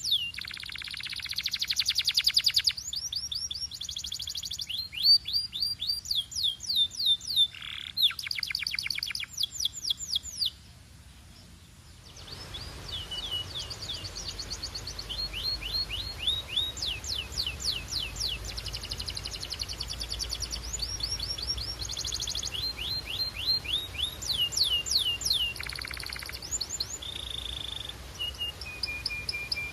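Domestic canary singing: long fast trills of repeated falling whistled notes, each run switching to a new note, with a brief pause about ten seconds in.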